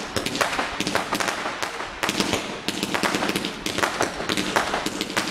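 Fireworks going off in a fast, irregular string of sharp bangs and crackles, several a second.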